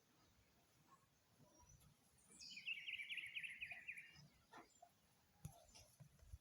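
A bird singing faintly: a short high note a little after two seconds in, then a rapid trill of quick notes lasting about a second and a half. A few soft knocks follow near the end.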